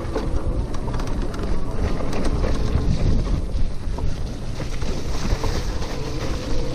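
Wind buffeting the microphone over the steady low rumble of an electric bicycle rolling along at riding speed, with scattered small clicks and rattles.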